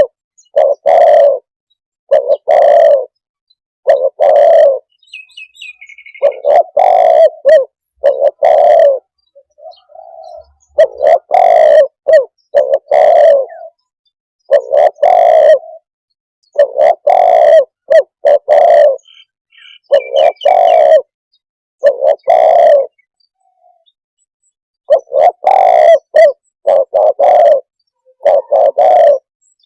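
Spotted dove cooing over and over, loud and close: phrases of two to four deep coos separated by short pauses. A small bird chirps faintly twice in the background.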